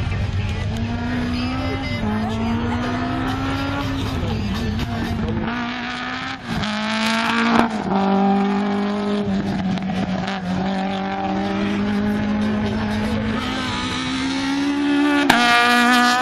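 Alpine A110 rally car's engine revving hard through a cone slalom, its pitch climbing and then dropping sharply several times with each lift or gear change, holding steady for a few seconds and climbing again near the end. A single sharp crack sounds near the end.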